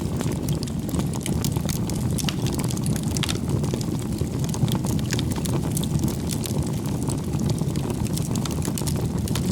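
Firewood burning in a bonfire: a steady low rumble of flames with many small, irregular crackles and pops from the burning wood.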